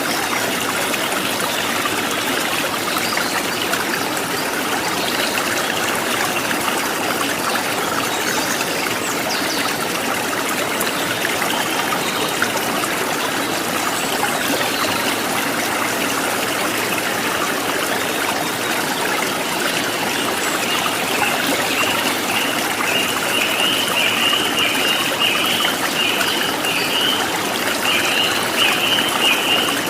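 A stream running with a steady trickle and splash. About two-thirds of the way through, a bird joins in with a fast series of short repeated chirps that carries on to the end.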